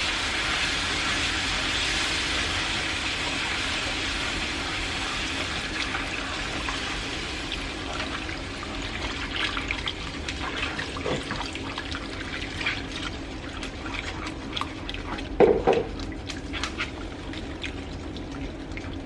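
Chicken broth poured slowly into a hot butter-and-flour roux in a pan, giving a steady hiss that gradually fades over the first half. Later, scattered clicks and scrapes of a utensil stirring against the pan, with one louder knock about fifteen seconds in.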